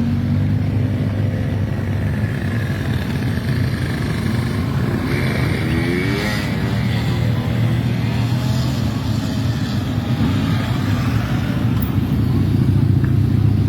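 Motorcycle engines running with a steady low drone. About five to seven seconds in, another engine rises and falls in pitch as it passes close by.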